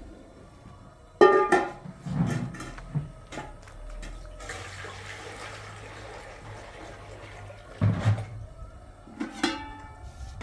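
Water running for a few seconds in the middle, with scattered knocks and clatter before and after it.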